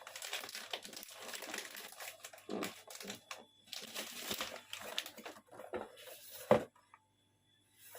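Packaging crinkling and rustling as it is handled and opened, with a sharp knock about six and a half seconds in.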